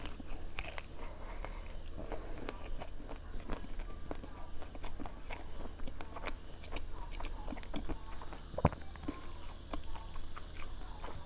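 Close-up eating sounds: irregular biting and chewing with many small clicks and crunches, over a low steady hum.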